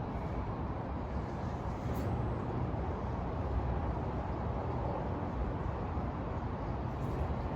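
Steady city ambience at night: an even, low rumble of distant traffic with no single event standing out.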